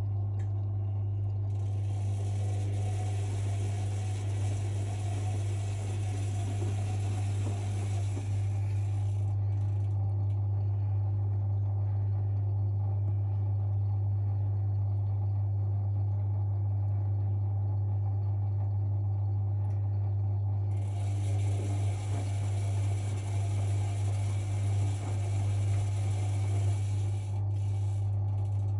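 Privileg 5020 washing machine running an Easy-Care 40 °C wash, with a steady low hum throughout. A hiss comes in suddenly twice, for about eight and seven seconds, and cuts off sharply each time.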